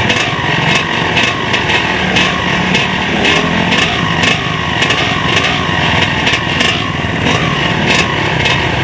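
Off-road motorcycle engine running hard, its pitch rising and falling without a break.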